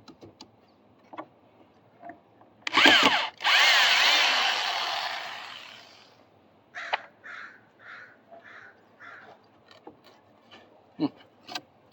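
Power drill running in a loud burst with a wavering whine, backing out old deck flooring screws, then trailing off over a couple of seconds. Afterwards comes a run of about six short, evenly spaced sounds and a few light clicks.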